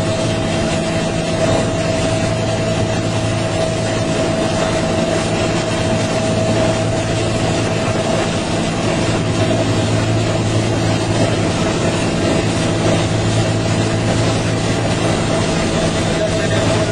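Helicopter running steadily: a constant turbine and rotor noise with a steady hum, without change.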